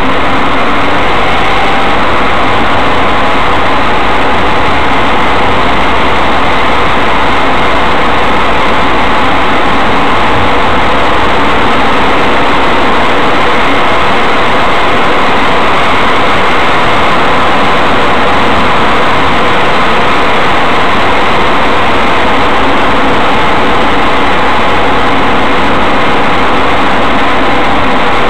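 Mazda 3 on a slow drive: a steady, loud wash of engine and road noise with no distinct knocks.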